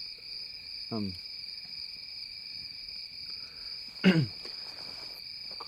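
Crickets chirping in a steady high trill, with two brief voice sounds falling in pitch, one about a second in and a louder one near four seconds.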